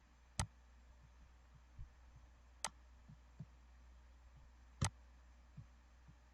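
Three sharp clicks about two seconds apart, the last the loudest, with a few faint soft knocks in between, over a steady low hum.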